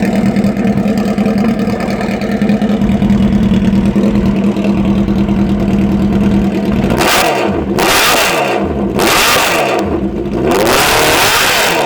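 Motorcycle engine with a full racing exhaust idling steadily, then revved hard several times from about seven seconds in, each rev rising and falling in pitch.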